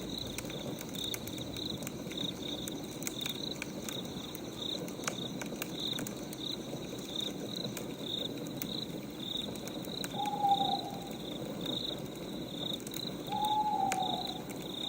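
Night ambience: crickets chirping steadily at about three chirps a second over the crackle and low rustle of a wood fire, with two short hoots about ten and thirteen seconds in.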